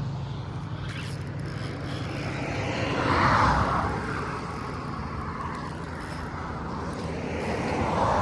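Road traffic: a steady rush with two vehicles swelling and fading as they pass, the louder one about three seconds in, another near the end.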